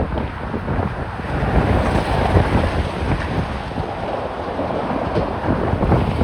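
Strong wind buffeting a phone's microphone: a loud rumbling noise that surges and eases with the gusts.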